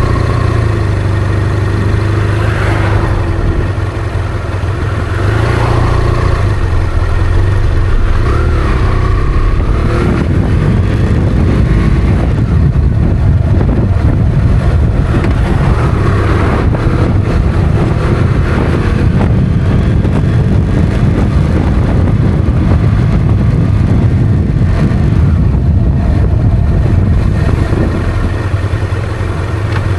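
Motorcycle engine running under way with a steady rush of wind and road noise. A few brief changes in engine pitch come in the first third.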